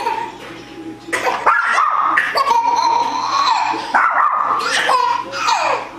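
A dog barking and yipping, a run of high calls whose pitch bends up and down, starting about a second in.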